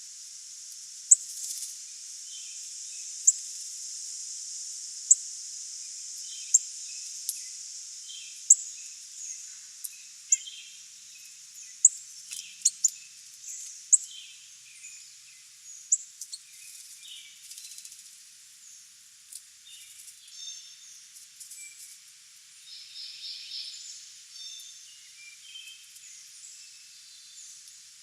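Wild songbirds calling. Sharp, high single chip notes come every second or two through the first half, with softer chirps scattered throughout, over a steady high hiss that fades out about halfway.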